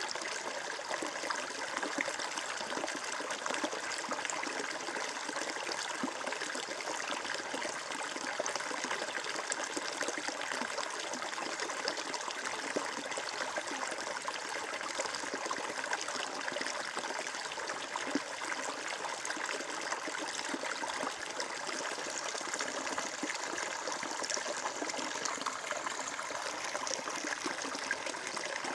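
Flowing water trickling and splashing in a steady, unbroken rush, like a small stream running over stones.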